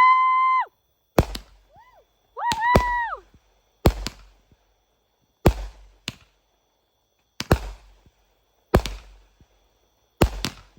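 A consumer firework cake firing a series of sharp aerial bangs, one about every one and a half seconds, each with a brief trailing echo. Short high tones rise and fall in pitch over the first three seconds.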